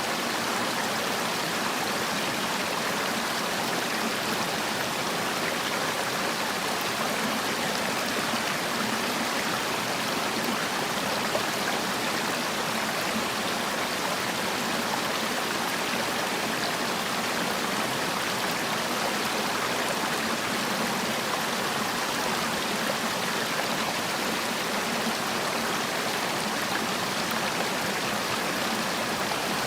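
Mountain-valley stream rushing steadily over rocks, an even water noise that never lets up.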